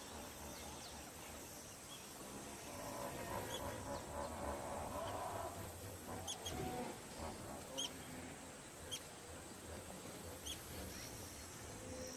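Faint wild-animal ambience: scattered short, high bird chirps over a low hiss, with a soft animal calling sound for a few seconds in the middle.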